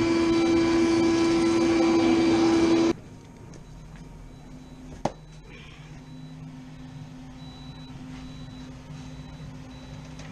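Running HVAC equipment with a loud, steady hum that cuts off abruptly about three seconds in, leaving a quieter steady hum. A single sharp click comes about five seconds in.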